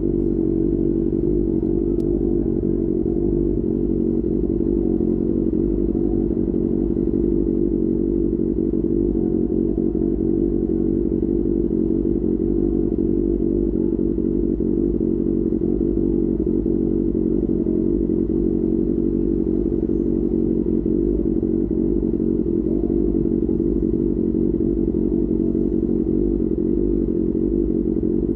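QJ Motor SRK600 inline-four engine running through an SC-Project exhaust at a steady speed, a constant drone that holds one pitch without revving.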